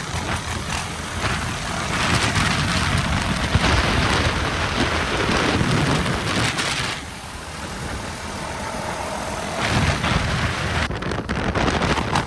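Wind rushing and buffeting over the microphone of a camera on a moving motorbike, with the bike's running underneath. It eases off about seven seconds in and picks up again around ten seconds.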